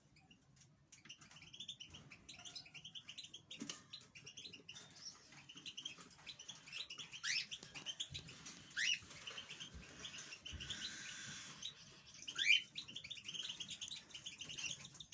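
European goldfinch singing: a fast, liquid twitter of short chirps broken by quick upward-sweeping notes, picking up after the first couple of seconds.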